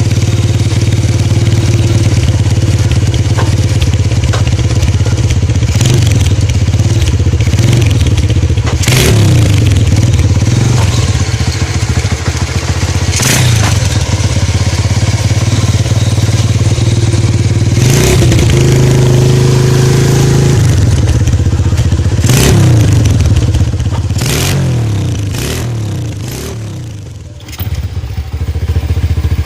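Honda S90Z motorcycle's small single-cylinder four-stroke engine running through an aftermarket GL-style 'kleper' exhaust. It idles steadily and is blipped on the throttle several times, each rev rising and falling back, with one rev held for about two seconds in the middle. The exhaust note is the 'plerrr' burble that this type of exhaust is fitted for.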